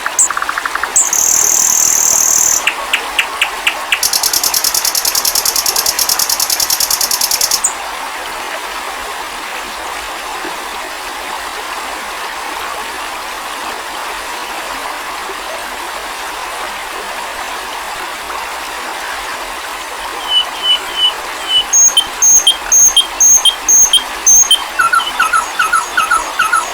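Recorded songbird song: loud, rapid high trills and chirps, then a long stretch of steady hiss with no calls, then quick runs of short, repeated high whistled notes near the end.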